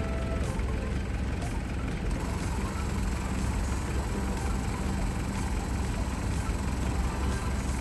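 A large engine idling steadily, with an even low hum.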